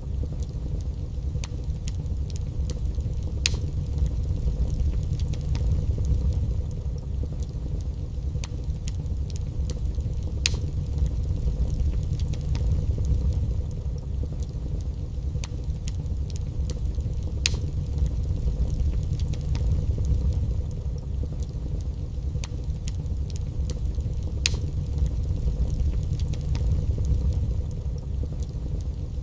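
Wood fire burning in a fireplace: a steady low rumble of the flames with sharp crackles and pops from the burning wood every few seconds.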